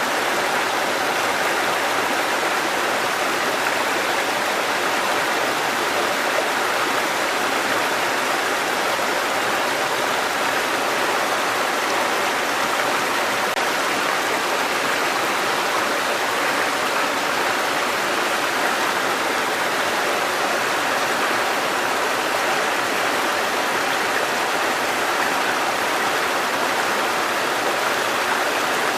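Water cascading over rocks in a mountain stream: a steady, unbroken rush.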